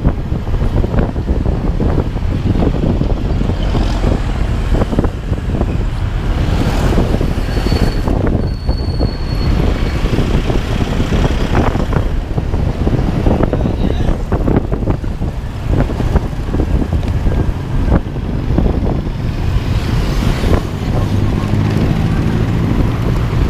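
Steady rumble and wind noise of a moving road vehicle, heavy in the low end, with a brief faint whistle about eight seconds in.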